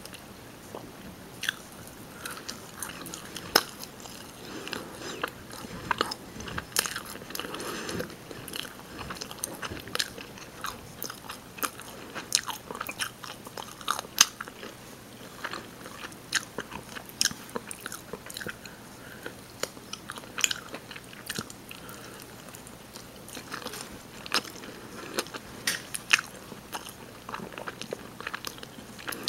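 Close-miked chewing and biting of rotisserie chicken, with irregular sharp mouth clicks and smacks, several a second at times.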